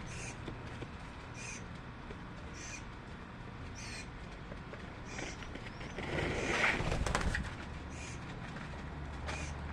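A bird repeating a short, high chirp about every second and a quarter, seven times, with a brief rustling flutter about six seconds in.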